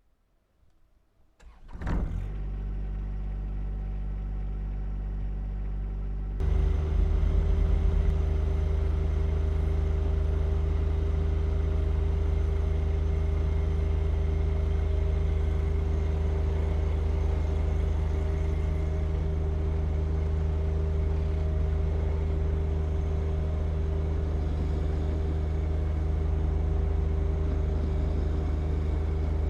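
John Deere 1025R compact tractor's three-cylinder diesel engine starting about two seconds in and settling into a steady run, then stepping up to a louder, fuller steady run a few seconds later.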